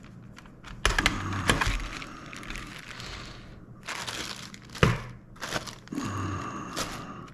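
Objects being handled on a tabletop: rustling and crinkling with several sharp clicks and knocks, the loudest knock a little under five seconds in.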